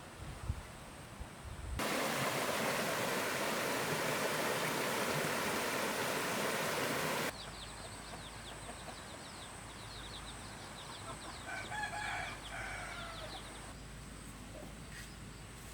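A loud, steady rushing noise like running water lasts about five seconds and cuts off suddenly. Quieter outdoor sound follows, with a chicken clucking briefly near the end.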